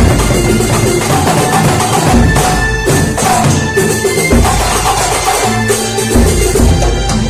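Kuntulan ensemble music: frame drums and other hand percussion playing a steady, loud rhythm over sustained pitched tones.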